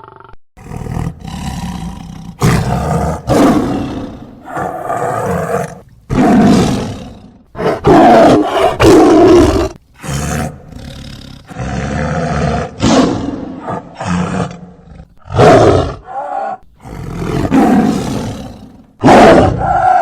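A large animal roaring repeatedly: a string of loud, rough roars, each about a second long, with short pauses between them.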